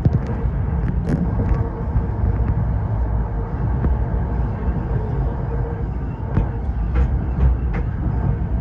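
Tokyo Metro 05 series commuter train running at speed: a steady low rumble of wheels on rail with a faint steady hum and a few scattered clicks.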